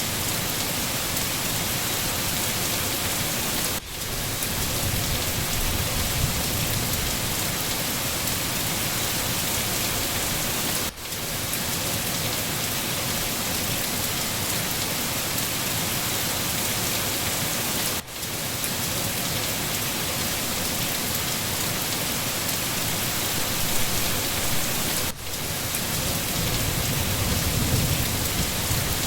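Steady, heavy rain falling on a forest, with low rumbles of distant thunder swelling twice. The rain briefly dips for a moment about every seven seconds.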